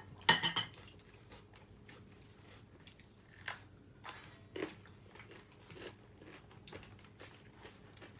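Someone eating a meal: a brief clatter of quick clicks from plate and dishes less than a second in, the loudest moment, then scattered soft chewing and crunching sounds.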